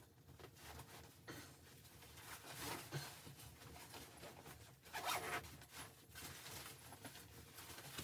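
Quiet rustling and scraping, like material being handled, with short louder bursts about three seconds and five seconds in.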